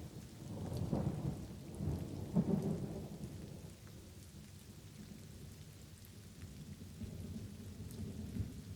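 Light rain falling, with a rolling rumble of thunder that swells about a second in, peaks near two and a half seconds and dies away by four seconds; a softer rumble builds again near the end.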